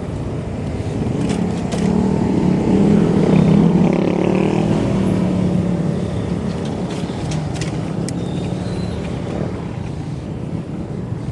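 Road traffic heard from a moving bicycle: a motor vehicle's engine swells from about two seconds in and fades again by about six seconds, over a steady rumble of road and wind noise, with a few sharp clicks.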